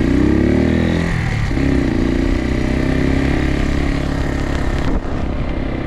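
Suzuki TU250X's single-cylinder engine pulling away: its pitch rises, drops sharply about a second in as it shifts up a gear, then climbs again and runs steadily.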